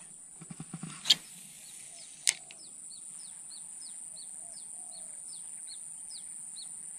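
A bird repeats a short, high, downward-sweeping note about three times a second over a steady high insect drone. A loud swish about a second in and a sharp click just after two seconds come from a spinning rod being cast.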